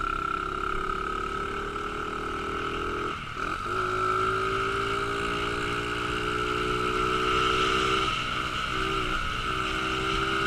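Small pit bike engine running at a fairly steady speed, its pitch sagging slightly. The note breaks off and comes back about three seconds in, and again with a couple of brief dips near the end.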